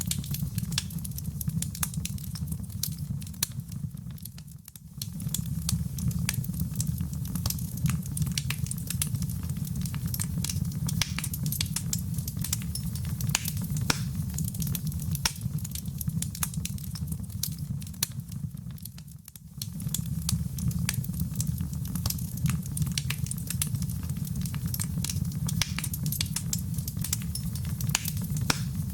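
Wood fire burning in a fireplace: a low steady rumble of flames with dense, irregular crackles and pops of burning logs. The sound dips briefly twice, about five seconds in and again near two-thirds of the way through.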